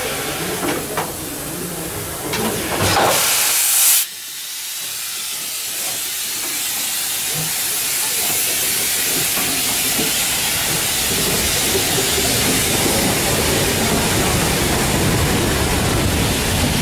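Steam locomotive letting off steam: a loud hiss swells and cuts off sharply about four seconds in, then a steady hiss slowly grows louder.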